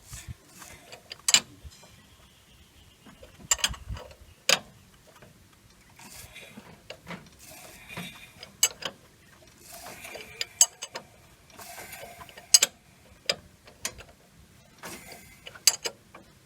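Wrench on the crankshaft pulley of a Toyota 4K engine, turning the engine over slowly by hand through a full revolution to bring piston number 4 to top dead center on compression. Sharp metallic clicks and clanks come at irregular intervals, with short stretches of mechanical rattling between them.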